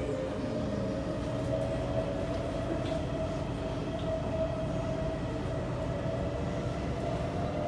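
Kawasaki C751B metro train running, heard from inside the carriage: a steady rumble of wheels on the track under a motor whine that rises slowly in pitch as the train gathers speed.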